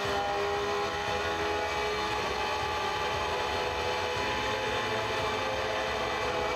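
Lamborghini L539 6.5-litre naturally aspirated V12 on a test-bench dyno at full throttle, revving high as it climbs toward its 8,500 rpm redline.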